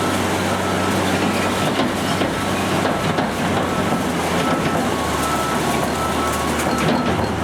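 Recycling truck's engine running steadily under a loud mechanical racket, with scattered knocks and rattles and a faint beep repeating about once a second.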